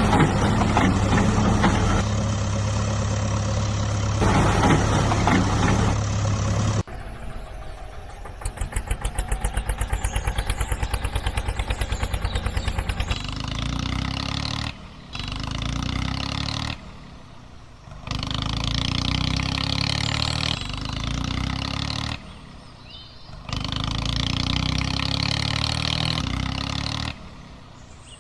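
Engine sounds in several cut-together stretches. A steady run comes first, then a rapid chugging from about 8 to 13 seconds, then repeated bursts of running engine with short breaks between them.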